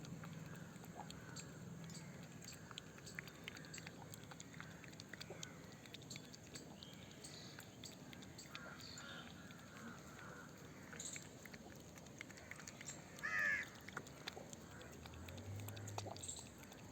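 A cat making an odd, crow-like call: one short, louder call about thirteen seconds in, with a few fainter calls before it, over a faint background with scattered small clicks.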